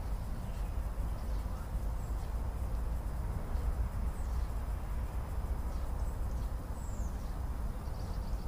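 Outdoor ambience: a steady low rumble with a few faint, short, high bird chirps.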